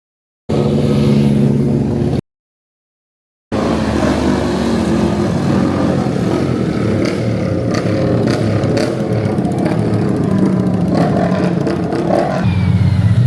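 Car engines running loudly in two cut-together stretches: a short one with a steady pitched note, broken off after under two seconds, then after a gap of silence a longer stretch of engine noise with a few sharp clicks and the pitch stepping up near the end.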